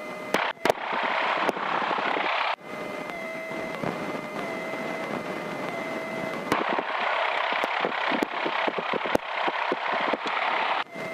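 Single-engine Grumman light airplane's engine and cabin noise heard through the cockpit intercom while taxiing: a steady rushing drone with a faint steady whistle, broken by scattered sharp clicks and pops. The noise cuts out briefly about two and a half seconds in and again near the end.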